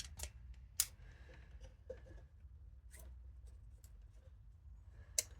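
Worn wire strippers snapping shut on an electrical wire as they try to strip its insulation: three sharp clicks, the loudest about a second in, with faint handling ticks between.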